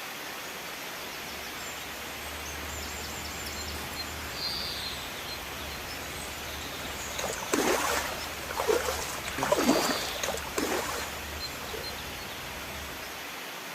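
Steady hiss of rain at night, with a few short louder swishes near the middle.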